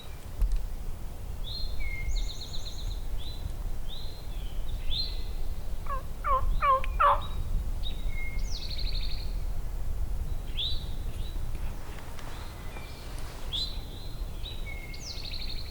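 A wild turkey gobbler gobbles once, a quick rattling run of falling notes about six seconds in, while songbirds chirp and trill throughout over a low rumble.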